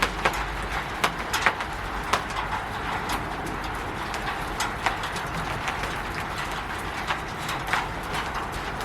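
Steady rain pattering on a roof, with irregular louder individual drops or drips striking, most often in the first couple of seconds.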